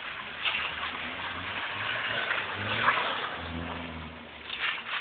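BMW E30 318is four-cylinder engine revving as the car spins donuts on wet cobblestones, with a steady hiss of tyres throwing up water. The engine note climbs a bit before the middle and is held high and loud shortly after.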